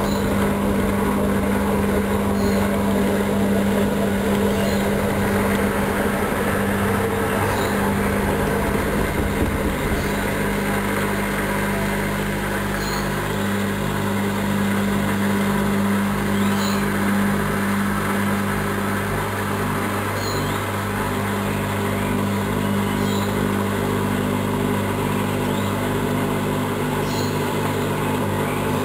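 Hoover Dynamic Wash washing machine running a mini-load wash, its drum motor giving a steady hum that shifts in pitch and texture about ten seconds in, with faint light ticks every second or two.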